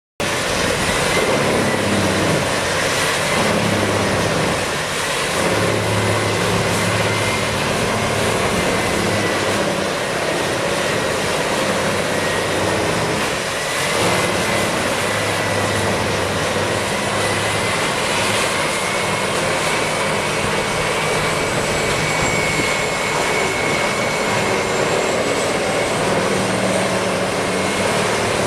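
Large wood chipper running steadily: a continuous engine and machine noise with a thin high whine that drifts slightly in pitch.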